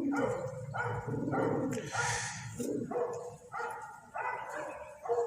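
A flock of domestic pigeons cooing in a rooftop loft, call after call overlapping, with a brief rush of noise about two seconds in.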